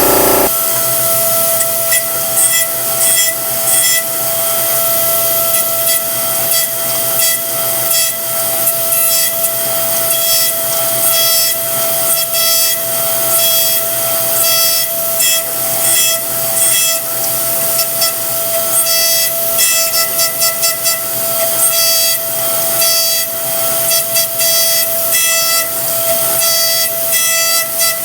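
Versamill 5X200 dental milling machine wet-machining an e.max lithium disilicate block: a steady high-pitched spindle whine over the hiss of coolant spray, with irregular rasping as the bur cuts.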